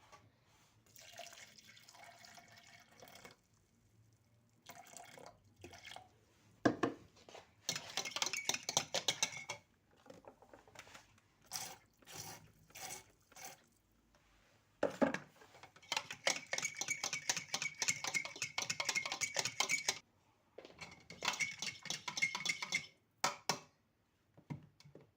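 Kitchen work in bursts of a few seconds: rapid clattering of a utensil against dishes, with a ringing note in the louder bursts. A single sharp knock comes just before two of the bursts.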